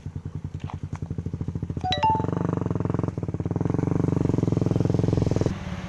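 Tuned motorcycle engine running with an even pulsing beat, run harder about two seconds in and held up before easing off near the end. A short high tone sounds briefly about two seconds in.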